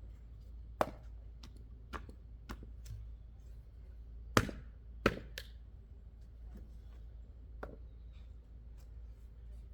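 Axe chopping wood: sharp single strikes at irregular intervals, the two loudest about four and five seconds in, with lighter knocks between.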